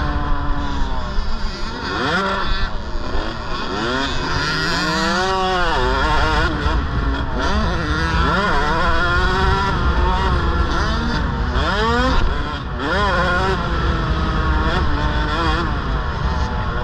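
KTM 65 two-stroke mini motocross bike engine revving hard and easing off again and again, its pitch rising and falling in repeated sweeps as the throttle is worked.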